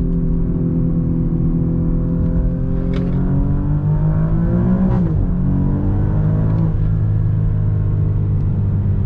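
2021 Alfa Romeo Giulia Quadrifoglio's 2.9-litre twin-turbo V6 accelerating hard in race mode, heard from inside the cabin. The engine note climbs, drops sharply at an upshift about five seconds in, then pulls on at a lower, steady pitch.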